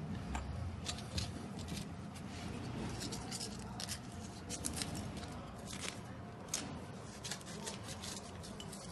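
Irregular light clicks and scrapes of small parts of a Moulinex spice grinder being handled, about a dozen, over a low background hum.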